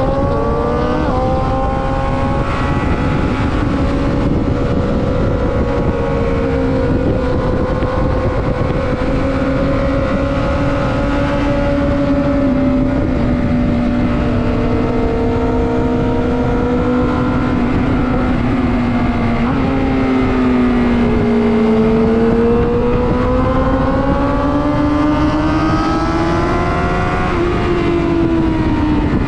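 Sport motorcycle engine running hard while lapping a race track, with wind noise on the onboard microphone. The pitch rises and steps down with a gear change about a second in, then holds fairly steady. It climbs again near the end and falls away as the bike slows.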